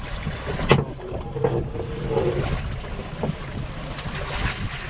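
Wind on the microphone and water around a small fishing boat at sea, a dense steady rumble, with one sharp knock just under a second in.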